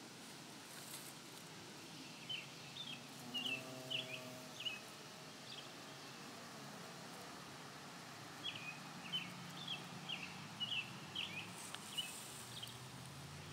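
A songbird sings two runs of short, high chirps, about eight notes each, over steady field ambience. A bee buzzes briefly close by about three and a half seconds in, and a faint low hum of bees working the milkweed flowers runs beneath.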